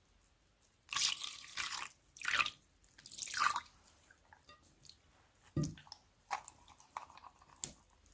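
Slime being squeezed and worked by hand: three squishy bursts in the first half, then a few short pops and clicks.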